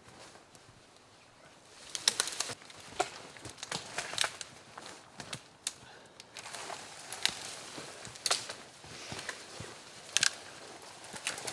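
Irregular crunching and rustling with sharp snaps, as of dry sticks, twigs and leaf litter being stepped on or handled, starting about two seconds in.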